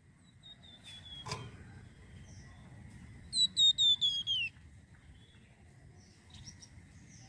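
A songbird, the 'flamboyan' of Indonesian bird keepers, singing. Soft notes and a single sharp click come first, then a loud quick run of about five clear, down-slurred whistled notes, the last one falling lower.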